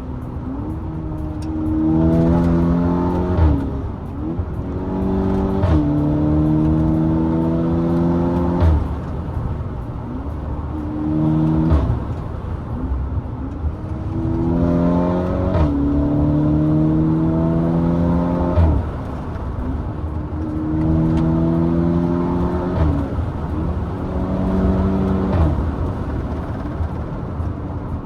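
VW Golf MK6 GTI Edition 35's turbocharged 2.0 TFSI four-cylinder, with a decat downpipe, accelerating hard through the gears. The revs climb for a second or two, then drop at each quick DSG upshift, and several of the shifts bring a short sharp crack from the exhaust.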